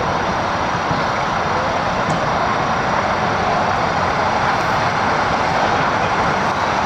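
Tsunami water surging in: a loud, steady rushing noise with no breaks.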